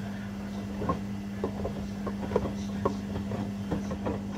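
Washing machines running a wash cycle: a steady low hum with irregular knocks and clicks from the turning drum and load.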